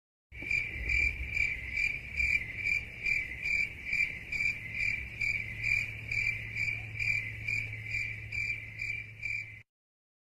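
Crickets-chirping sound effect, the meme cue for awkward silence: a steady high chirp pulsing a little over twice a second over a low hum, cutting off suddenly near the end.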